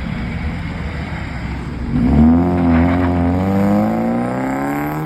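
Car engine pulling away under acceleration: a low rumble, then about two seconds in the engine gets loud and its pitch climbs steadily as it speeds up.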